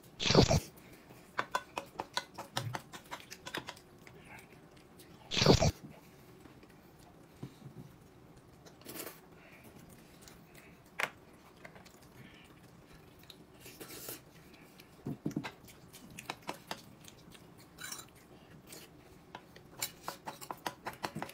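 A person chewing and eating food close to the microphone, with wet clicks and smacks throughout. Two loud short noisy bursts stand out, one at the start and one about five seconds in.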